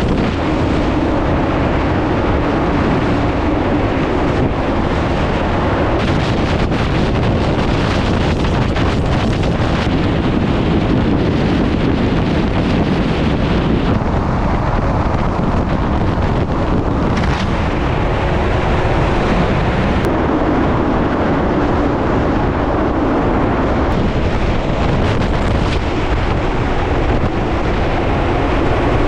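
Simulated hurricane-force wind from a test facility's fan array rushing steadily against a full-scale house, buffeting the microphone, with a steady low hum underneath and scattered brief rattles and knocks.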